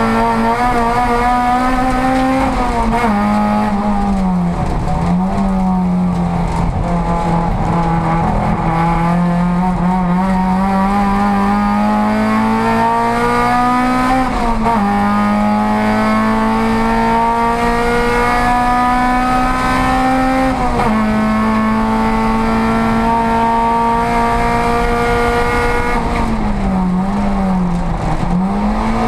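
Volkswagen Golf race car engine heard from inside its stripped cabin under hard acceleration. The revs climb steadily and drop back at upshifts about 15 and 21 seconds in, with dips a few seconds in and near the end where the throttle is lifted before picking up again.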